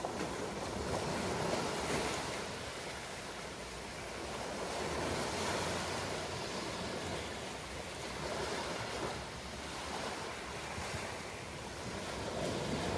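Ocean waves: a steady wash of surf that swells and eases in slow surges every three to four seconds.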